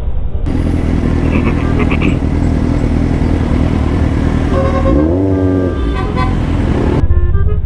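Suzuki GSR 750's inline-four engine running in traffic, the revs rising and falling once about five seconds in, over steady road noise. A few short high toots, like a horn, come about a second and a half in.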